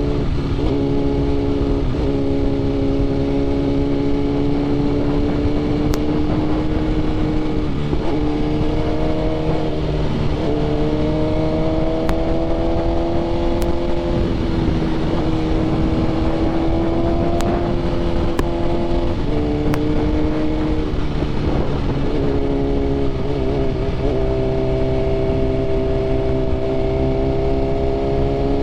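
Sport-bike engine running at a steady cruise, a BMW S 1000 RR inline-four with aftermarket titanium headers and exhaust, its note holding mostly level with a few brief breaks where the pitch steps up or down.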